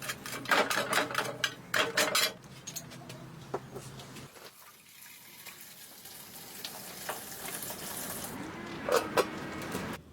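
Cooking sounds: a quick run of clinks and knocks of utensils against cookware over the first two seconds. Then a quieter stretch with a soft hiss, and two more sharp clinks near the end.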